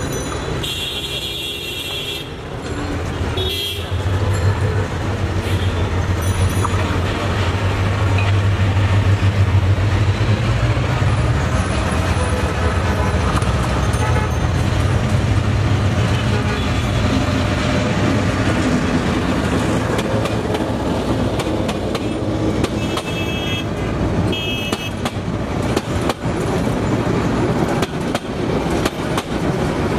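A diesel locomotive hauling a passenger train sounds a short horn blast about a second in, then its engine drones loudly as it passes close by. Toward the end the passenger coaches roll past, their wheels clicking over the rail joints.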